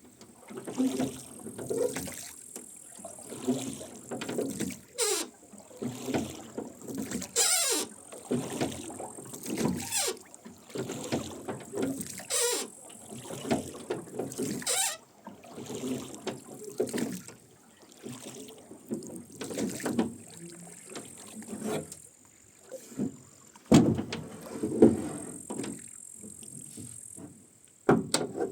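Rowboat oarlocks creaking and oars splashing as the boat is rowed, a stroke about every two and a half seconds. There is a sharp knock a little after the middle.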